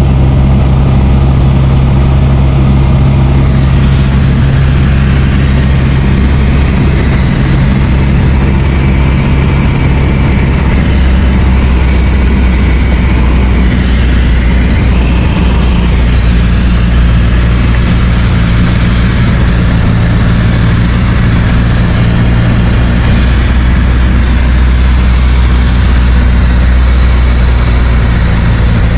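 Light aircraft's piston engine and propeller running with a steady drone. The engine note changes pitch about ten seconds in, as the engine speed is changed.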